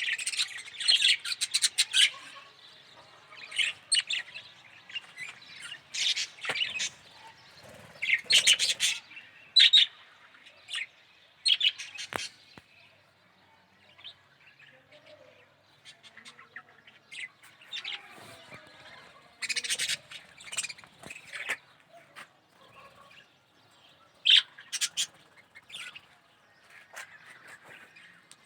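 Budgerigar chirping and chattering in short, irregular bursts of high chirps, with quieter gaps between them.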